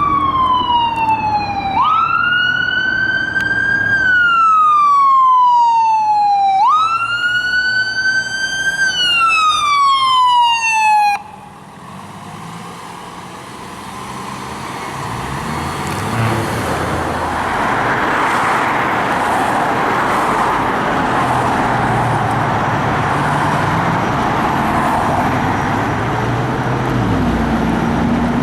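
Fire engine's electronic siren on wail, each cycle rising quickly then falling slowly over about four seconds. It cuts off suddenly about 11 seconds in. Then a heavy truck engine revs up several times over growing road noise, and a siren starts rising again at the very end.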